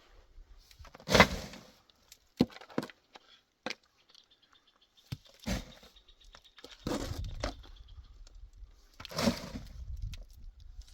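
A series of sharp, irregularly spaced knocks and cracks, the loudest about a second in, with a faint high steady whistle for a few seconds in the middle and a low rumble through the second half.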